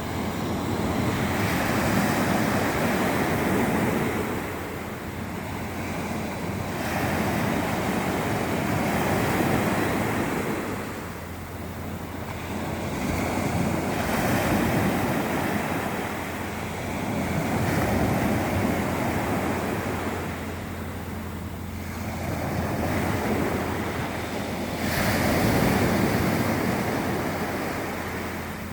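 Sea waves washing in and drawing back, swelling roughly every four to five seconds, with wind buffeting the microphone.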